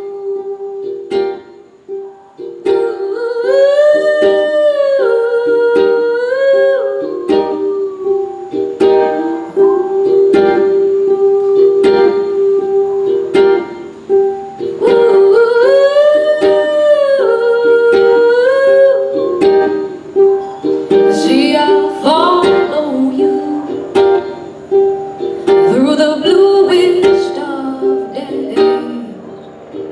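Live acoustic ukulele accompaniment with a voice singing a wordless melody over it, in two long phrases that rise and fall, then quicker sliding vocal runs near the end.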